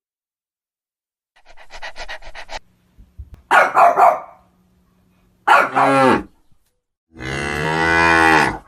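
Animal calls: a quick run of short pulses, then three loud separate calls, the last one long and drawn out.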